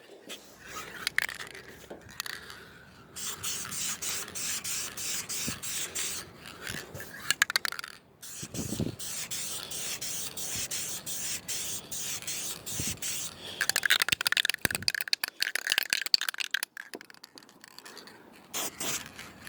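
Aerosol spray can of clear coat hissing as it is sprayed in passes, the spray pulsing and pausing between strokes.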